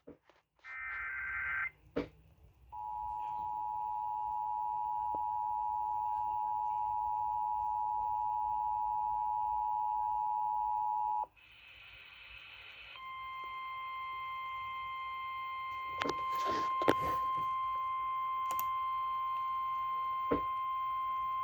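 Emergency Alert System tones for a severe thunderstorm warning, played over a radio broadcast. A short warbling data burst comes first. Then the steady two-tone attention signal sounds for about eight seconds, and after a brief burst of noise a single steady alert tone sounds for about nine seconds, with a few sharp clicks partway through.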